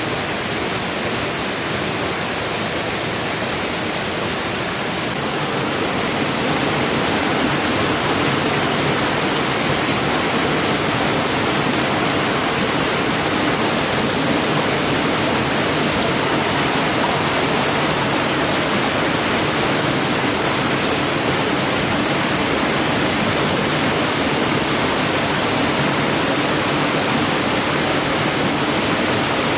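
Heavy rain falling steadily, getting louder about six seconds in.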